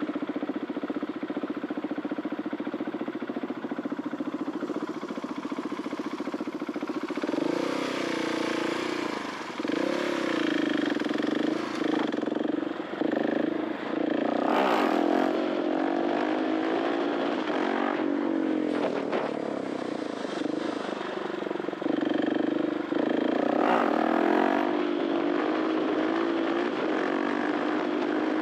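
2021 KTM 690 SMC R's 693cc single-cylinder four-stroke engine running through an Arrow titanium exhaust, at a steady pitch for the first several seconds, then revving up and dropping back again and again as the throttle opens and closes.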